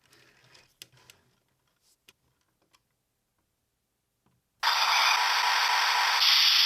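Light plastic clicks and taps as a toy robot's parts are handled, then, about four and a half seconds in, a loud steady hiss that starts abruptly and carries on for about two seconds.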